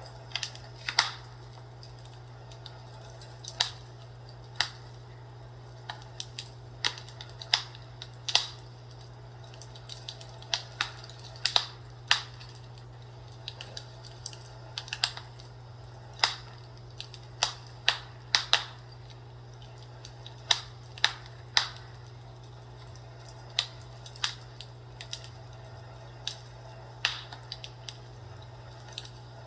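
Fireplace crackling: irregular sharp pops and snaps, roughly one or two a second, over a steady low hum.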